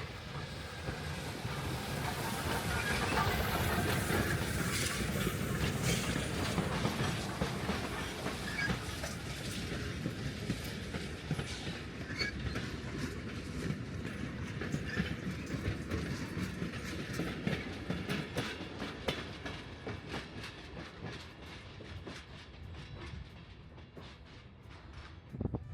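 Steam train hauled by 1917 Baldwin 2-8-0 locomotive No. 81 running at speed, with wheels clicking over the rail joints. It is loudest in the first several seconds and slowly fades toward the end.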